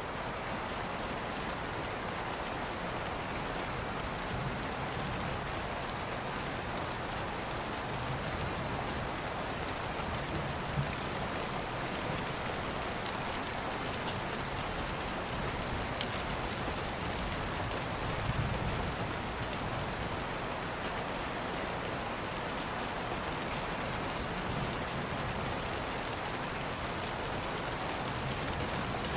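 Steady rain falling, with a few sharp ticks here and there.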